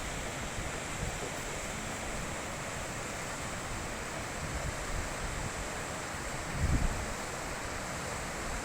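High-mountain river rushing in a steady, even hiss. About two-thirds of the way through, a brief gust of wind buffets the microphone with a low rumble.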